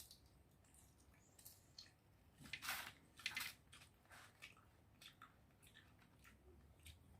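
Crispy deep-fried seafood being bitten and chewed, a faint run of crackly crunches with a couple of louder crunches around the middle.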